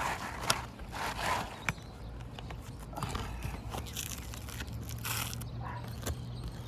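An asphalt roofing shingle being cut by hand to fit a repair, in a few short, uneven scraping strokes, with a sharp click about half a second in.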